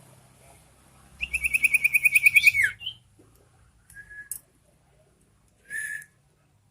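Common iora singing: a loud, rapid high trill lasting about a second and a half that ends in a downward slur, followed by two short calls.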